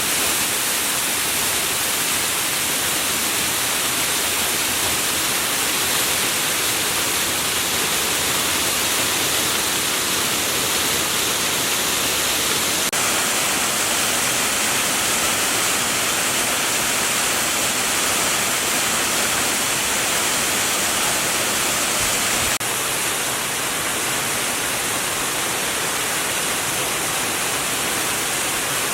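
Waterfall: a steady rush of falling water with no pitch to it. Its character shifts slightly twice at abrupt cuts.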